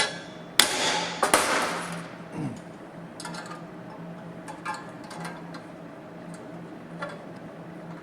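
Panel hammer striking a steel car sill panel: three hard, ringing blows in the first second and a half, then a few light taps and clicks. The blows knock down a spot where the panel sits a little high.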